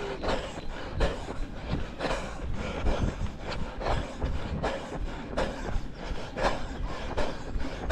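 A runner's footsteps thudding in a steady rhythm, about two to three strides a second, with the body-worn camera jostling on each stride.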